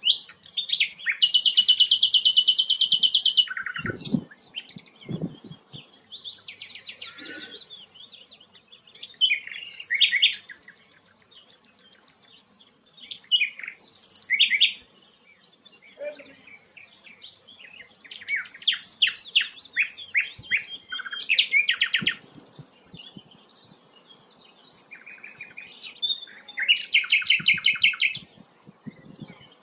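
A sikatan londo flycatcher singing: varied chirping phrases broken by loud, fast, buzzy trills, the longest near the start, with further trills about two thirds of the way through and near the end. A couple of low thuds about four seconds in.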